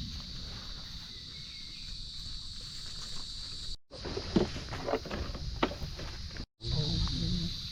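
Steady high-pitched chorus of night insects in the rainforest, with low rumble underneath. Partway through, a few seconds of crackling and snapping, like footsteps through leaf litter and undergrowth. The sound cuts out briefly twice.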